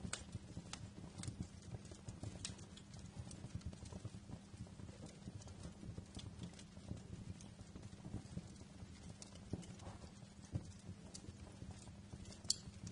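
Wood fire burning in a fireplace: a low steady rumble of flames with irregular crackles and pops, a sharper snap near the end.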